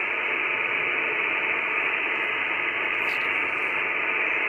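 Icom IC-7300 receiver's steady SSB band-noise hiss on 10 metres, cut off above about 3 kHz by the receive filter. It carries no voice: the other station's reply has faded out in the QSB.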